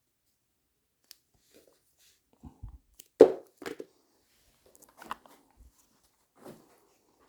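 Scattered clicks and knocks of motorcycle parts and wiring being handled, with one sharp knock about three seconds in, the loudest.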